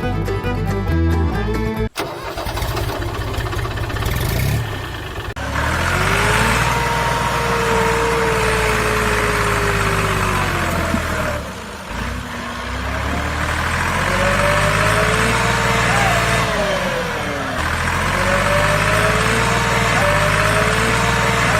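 Small motor of a homemade model machine running with a hissing rattle, its whine repeatedly rising and falling in pitch as it speeds up and slows down. Music plays for the first two seconds.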